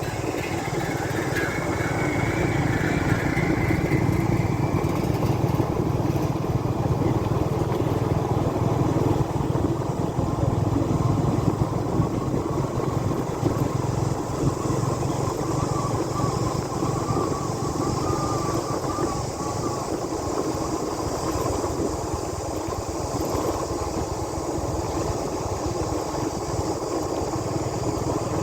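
Motorbike engine running steadily as the bike is ridden along.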